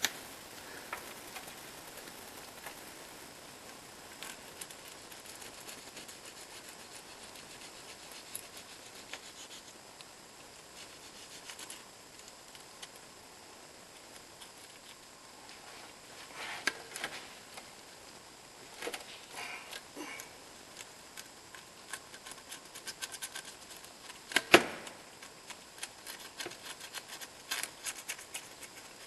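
Scattered light clicks, taps and scrapes of hand tools and metal parts being handled while working on the engine, with one sharp knock about 24 seconds in, over a steady hiss.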